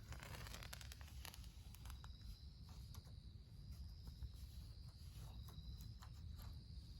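Faint insects trilling, a steady high thin tone that comes in about two seconds in, with scattered light clicks and taps of things being handled.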